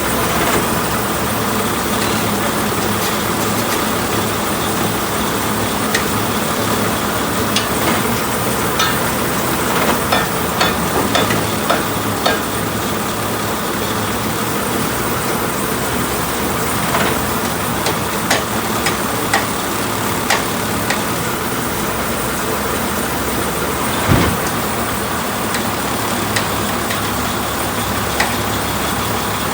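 Truck engine running steadily, with scattered sharp clicks and knocks over it and one louder knock about 24 seconds in.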